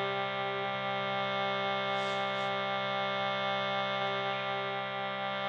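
A steady, sustained musical drone: a held chord of many tones with a slow, even wavering, with a couple of soft brushing noises about two seconds in.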